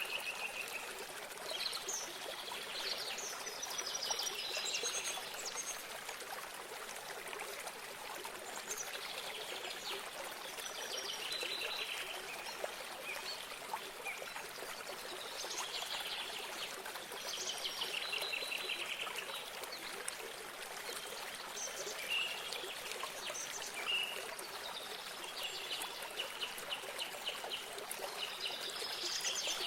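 Water trickling steadily, with small birds chirping and trilling in short phrases over it every second or two.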